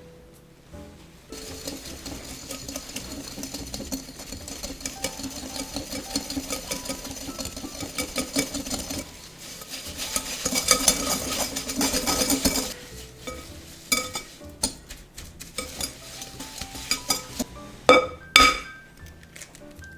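Ingredients being stirred briskly in a mixing bowl: a fast, steady scraping and clicking of a utensil against the bowl for about ten seconds. After that come a few light taps and two sharp knocks near the end.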